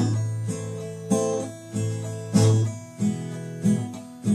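Acoustic guitar being strummed, chords struck about every half second and left to ring, with no voice.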